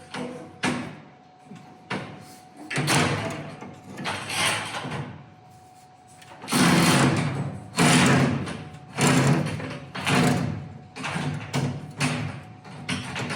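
Steel garage-door torsion spring hardware being handled and slid along the spring shaft: an irregular series of metallic scrapes and knocks.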